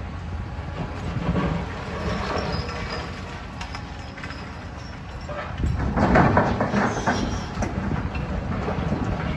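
Demolition machinery working: a steady low engine rumble with clanking and crunching of breaking debris, loudest from about six seconds in.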